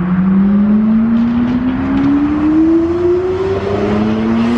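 Lamborghini engine revving hard under full acceleration, its note climbing steadily in pitch for about three and a half seconds; near the end a second, lower note starts rising as well.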